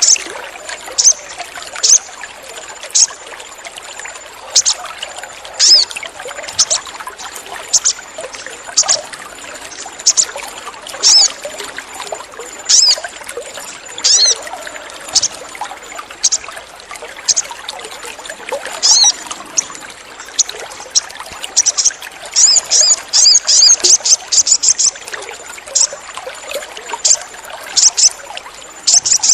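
Sogon bird giving short, sharp, high chirps about once a second, breaking into a quick run of chirps a little past two-thirds of the way through, over trickling water.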